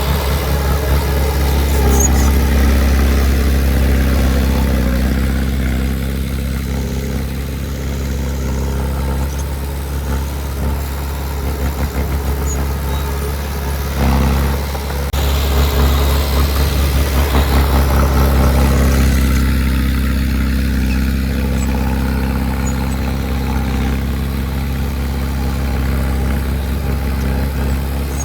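Diesel engine of heavy earthmoving machinery running steadily, growing louder in a couple of stretches as it works.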